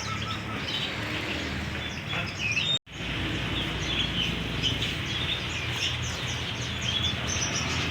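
Many caged songbirds chirping and whistling together in short, high calls, over a steady low hum. The sound cuts out for an instant about three seconds in.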